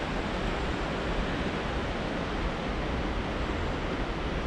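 Steady rush of falling water, with a low fluttering rumble of wind on the microphone.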